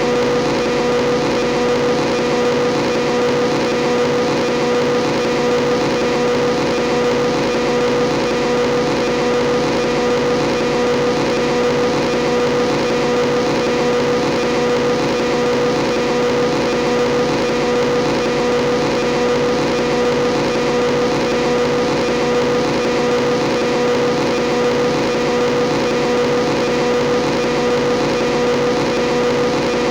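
Motorcycle engine running at a steady, unchanging speed, with a strong hum and no revving.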